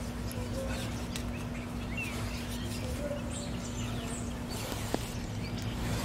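Quiet background ambience with a few faint, short bird chirps over a steady low hum, and a single light tick about five seconds in.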